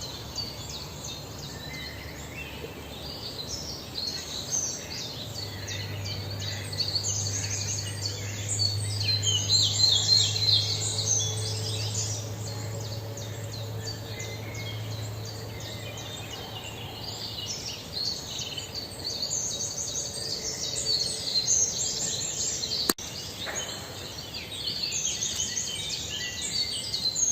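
Small birds chirping in a dense, continuous stream of short, high notes, with a low steady hum underneath through the middle stretch and a single sharp click near the end.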